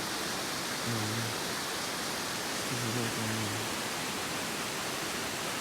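Steady rushing noise of flowing water from a mountain stream, with two short low vocal sounds about one and three seconds in.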